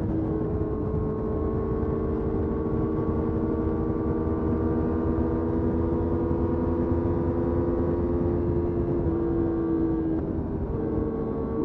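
Motorcycle engine running under way, its pitch slowly rising as it pulls, then briefly dropping and picking up again about ten seconds in, as at a gear change.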